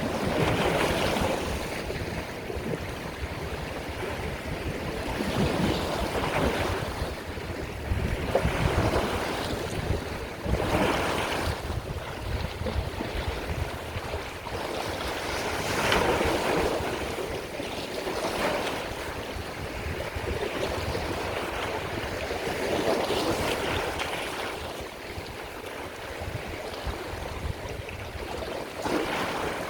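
Sea waves breaking and washing ashore: a steady rushing hiss that swells every few seconds as each wave comes in, over a low rumble.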